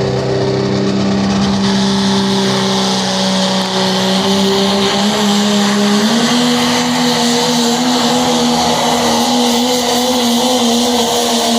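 Pulling vehicle's engine running hard under load during a pull, its steady note stepping up slightly in pitch about halfway through.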